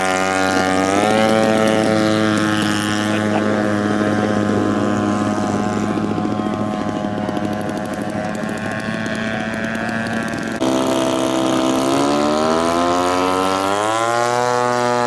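Gas engines of a giant-scale radio-control model warplane running with propellers turning. The pitch rises about a second in and again near the end as the throttle opens, with a sudden change in the sound about two-thirds of the way through.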